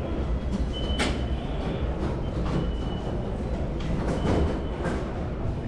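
Tram running on its rails with a steady low rumble, a few sharp knocks and brief high wheel squeals recurring every second or two.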